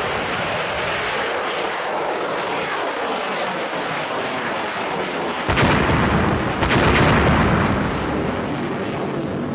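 Steady loud rushing noise, with two heavy booms a little past the middle, about a second apart; the second lasts longer.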